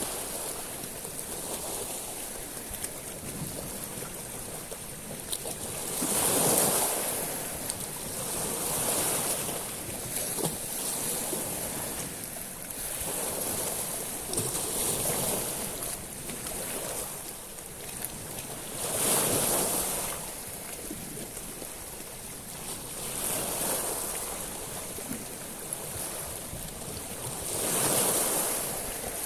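Sea waves breaking and washing over a pebble beach, each wave a swelling rush with a hissing top, the loudest about every four to six seconds, over a steady wash of surf.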